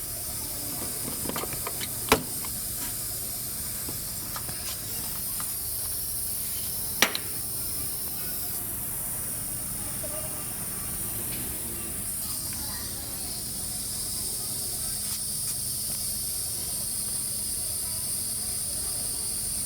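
Nissan Sunny XL running steadily with a continuous hissing noise, the sound problem being demonstrated. Two short sharp clicks about two and seven seconds in.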